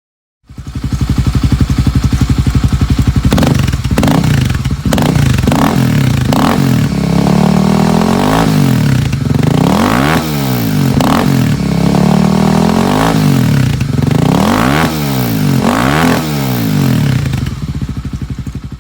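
An engine running and being revved over and over, its pitch rising and falling again and again after a few steady seconds.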